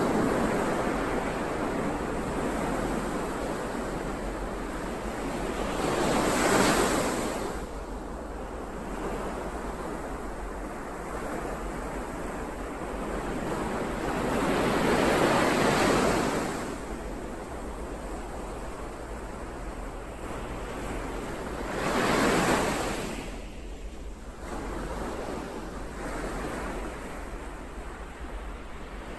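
Sea waves washing in: a steady wash of surf, with a louder wave surging in and falling away four times, roughly every seven to eight seconds.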